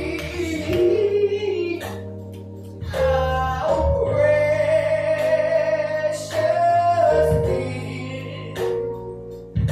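A solo voice singing a gospel praise song over instrumental accompaniment, holding long notes with fresh chords struck every few seconds.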